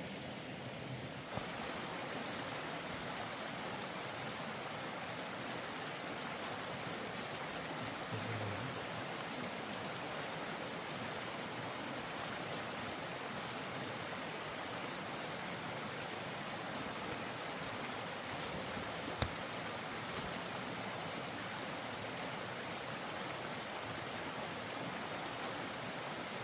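Steady rushing noise of running water, starting about a second in, with one sharp click about two-thirds of the way through.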